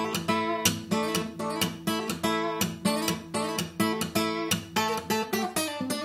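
Background music: an acoustic blues guitar picked and strummed in a quick, even rhythm, several plucked notes a second.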